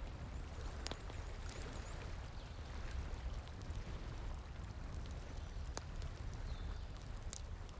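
Bonfire crackling with a few sparse, sharp pops over the steady rush of a flowing stream.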